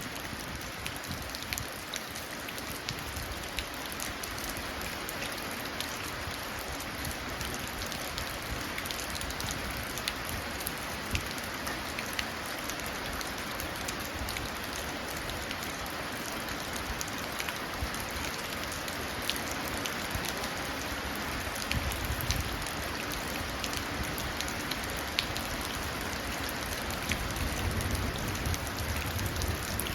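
Steady rain falling onto a puddle, an even hiss with scattered drop ticks. A low rumble builds near the end.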